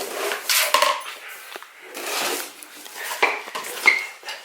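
Metal hand tools clinking and clattering as they are rummaged through by hand in search of one tool, with a few sharp knocks and a short metallic ring near the end.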